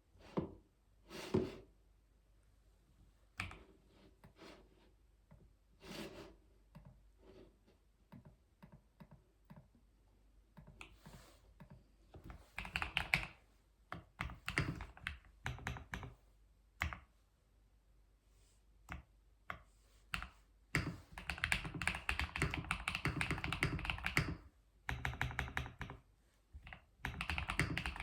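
Typing on a computer keyboard: scattered single keystrokes at first, then quick runs of steady typing about halfway through and again near the end.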